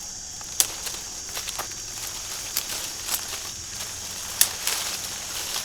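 Sharp snaps and crackles at irregular intervals, the loudest about half a second in and again past the four-second mark, over a steady high hiss.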